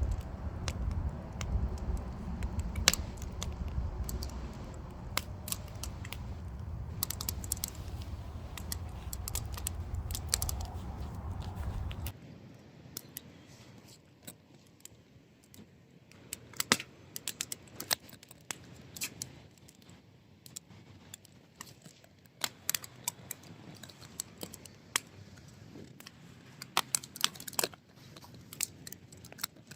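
Wood fire crackling, with irregular sharp pops and snaps from the burning firewood. A low rumble underneath cuts off suddenly about twelve seconds in.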